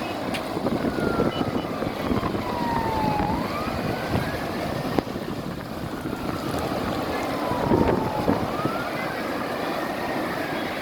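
A siren wailing in a slow cycle, rising quickly and falling slowly about every five seconds, over a steady rushing noise.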